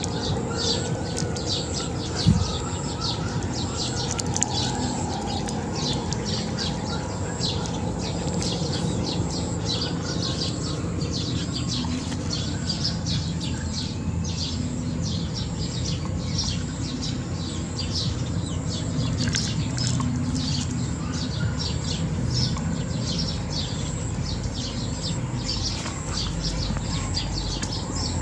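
Small birds chirping continuously, short high chirps several a second, with a steady thin high-pitched tone underneath. One sharp knock about two seconds in.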